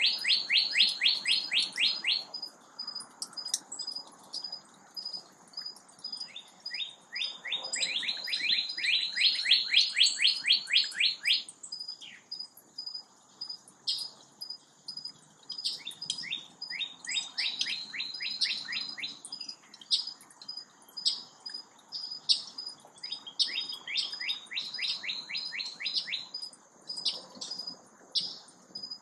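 Songbird singing: four bouts of a fast trill of down-slurred whistled notes, about eight notes a second and each bout a few seconds long, with scattered single chips between. A faint, steady, high pulsing tone runs underneath.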